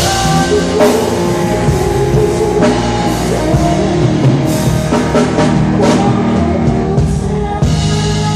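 Band playing rock music, with drum kit beats and guitar under steady sustained chords.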